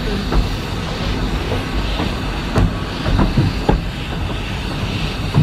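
Narrow-gauge train carriage running along the track, heard from an open window: a steady rumble with a few sharp clicks and knocks from the running gear.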